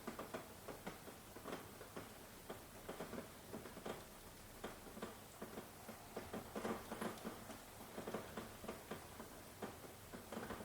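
Rain falling lightly, with single drops pattering and ticking irregularly over a faint hiss.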